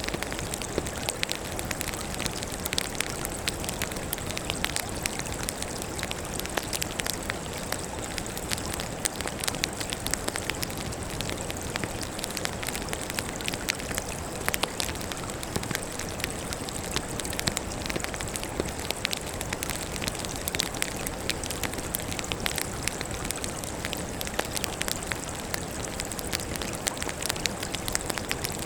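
Wood fire crackling, with a steady hiss of burning logs and a dense, unbroken run of small sharp pops and snaps.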